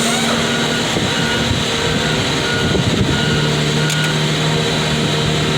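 Car crusher's engine running steadily at working speed, still not idling down after the crush cycle as it should.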